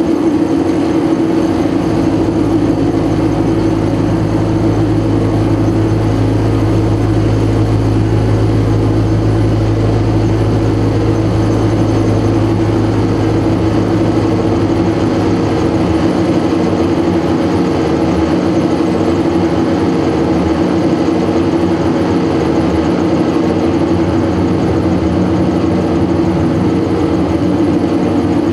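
Live noise music: a loud, dense, unchanging drone built on one strong held tone with a haze of noise above it. A deep low hum underneath drops out about halfway through.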